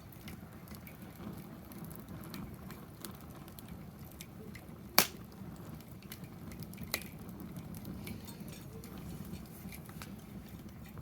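Wood fire burning in a fire pit: a steady low rustle of flame with scattered small crackles, and one sharp pop about five seconds in.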